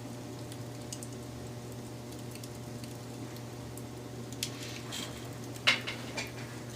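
Wood fire burning with a steady low rumble and scattered crackles. A cluster of sharp pops comes in the second half, the loudest a little before the end.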